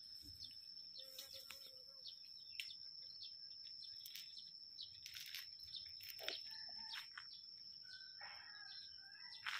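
Faint outdoor birdsong: several small birds chirping and whistling short notes, some sliding in pitch, over a thin steady high-pitched tone.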